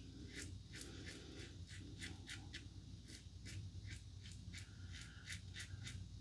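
Safety razor scraping through lathered stubble in quick short strokes, about three a second, faint and crisp.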